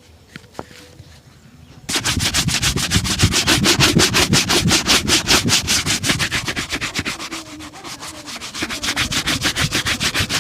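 A shoe being rubbed with rapid back-and-forth shoe-shine strokes, about six a second. The strokes start about two seconds in, ease off briefly past the middle, then pick up again.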